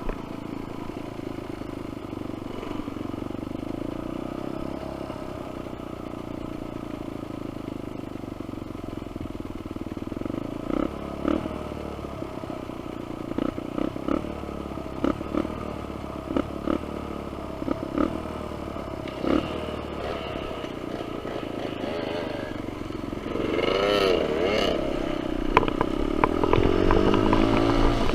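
Dirt bike engines running on a trail: a steady low engine note, then a series of knocks and rattles from about ten seconds in, and near the end a louder engine revving up and down.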